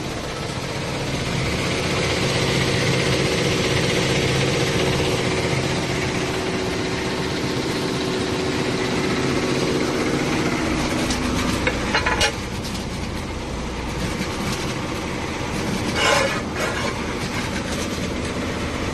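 Industrial metal sanding machine running: a steady mechanical hum under a broad grinding hiss. The hiss thins about halfway through, and there are two short, louder clatters later on.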